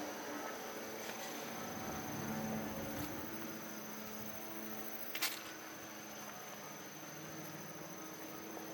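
Insects chirring in a steady high drone, with one sharp click about five seconds in.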